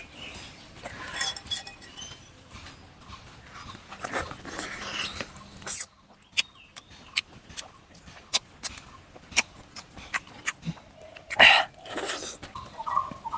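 Close-miked eating sounds of someone chewing meat: irregular wet smacks, clicks and chomps from the mouth, with a couple of louder smacks near the end.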